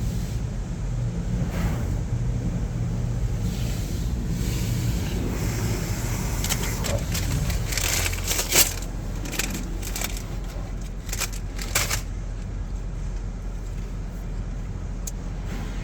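Steady low rumble of a car heard from inside the cabin, with scattered sharp clicks and crackles through the middle.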